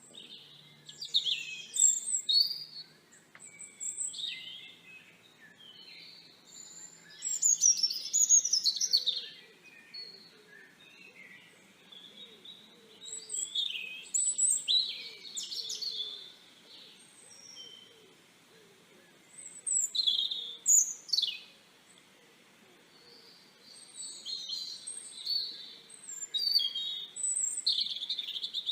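Small songbirds chirping and calling, with several short high chirps and quick twittering phrases coming in clusters separated by brief lulls.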